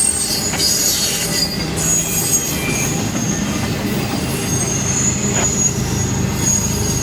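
Freight train rolling past: a steady rumble of the cars on the rails, with high-pitched wheel squeal that comes and goes.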